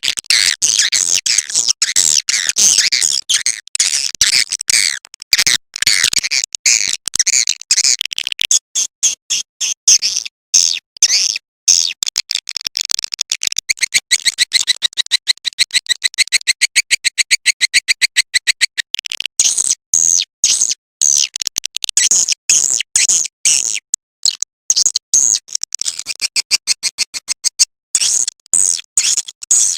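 Swiftlet call recording used to lure swiftlets into a nesting house: dense, high twittering chirps and clicks, with a fast, even run of pulsed chirps in the middle.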